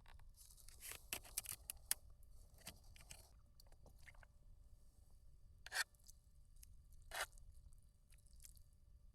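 Quiet handling noises: short rustles and clicks, with two louder sharp knocks about six and seven seconds in.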